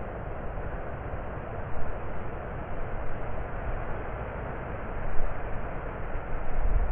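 Wind buffeting the microphone: a steady rushing noise with a low rumble that swells in small gusts.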